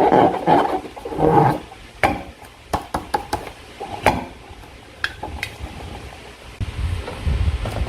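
Slime being worked by hand: sticky squelching and smacking, with a few sharp clicks, two louder bursts of squishing near the start, and a low rumbling squish near the end.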